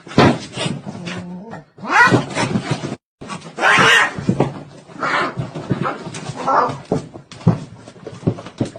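A dog making a run of short, repeated calls that glide in pitch, broken by a sudden cut about three seconds in.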